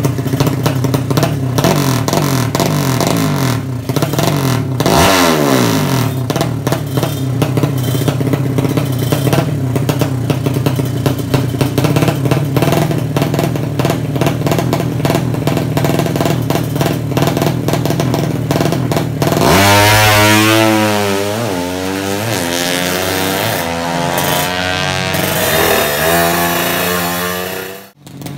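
Drag-racing motorcycle engine running at a steady, rough idle with constant clatter and a brief rev about five seconds in. From about two-thirds of the way through it is revved up and down several times.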